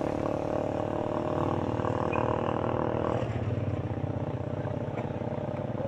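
Motor vehicle engine running close by on a street. A higher-pitched part of the engine sound stops about three seconds in, leaving a lower, steady engine hum.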